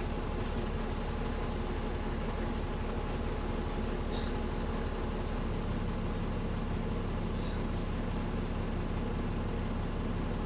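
Bus diesel engine running steadily with an even low pulsing from its leaking exhaust; its note shifts about halfway through.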